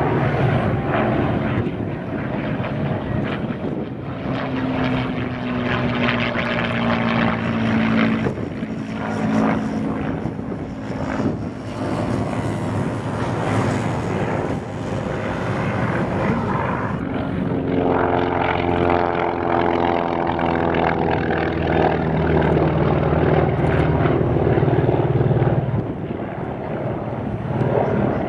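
Piston-engined propeller aircraft droning as they fly past, their engine pitch sliding slowly downward as they pass. The drone swells twice, the second pass the louder.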